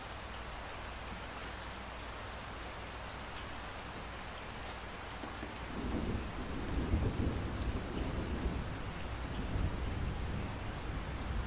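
Steady rain falling, with faint drop ticks, and a low rumble of thunder that builds about halfway through and rolls on.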